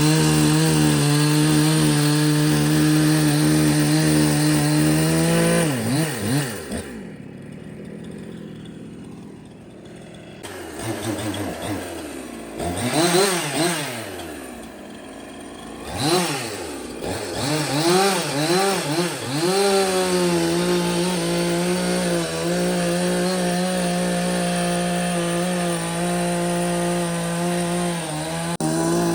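A power tool's motor running loud at a steady high speed. It drops away about six seconds in and is revved up and down several times. From about twenty seconds in it is held at high speed again.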